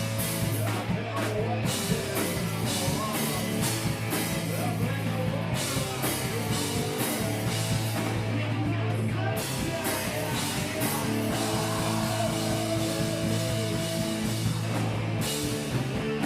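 A live rock band playing a cover song, with electric guitar, bass and a drum kit, cymbal crashes coming again and again.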